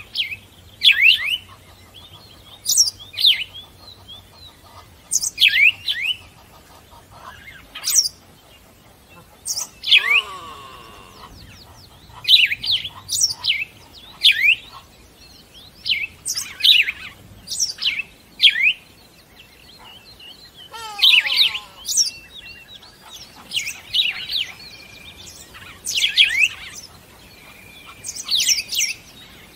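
A bird calling over and over: short, sharp chirps in clusters every second or two. Twice a lower, longer call is heard.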